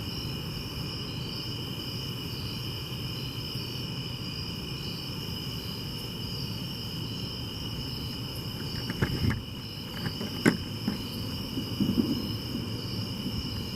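Steady chorus of night insects, crickets among them: two constant high-pitched trills, one of them pulsing. About nine to ten seconds in, a couple of dull knocks and a sharp click stand out over the trilling.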